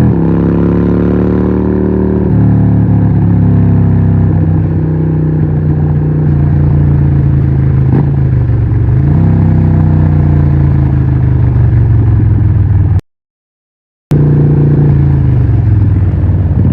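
Harley-Davidson 1200 Nightster's 1200cc Evolution V-twin running through a Vance & Hines exhaust at low revs. Its pitch settles lower about two seconds in and dips and climbs again about nine seconds in. The sound cuts out completely for about a second near the end.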